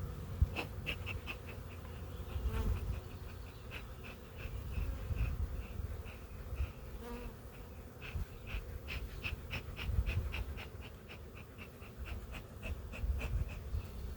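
Honeybees buzzing around an open hive, mixed with runs of short, high chirps, several a second, that come and go in stretches, over a low uneven rumble.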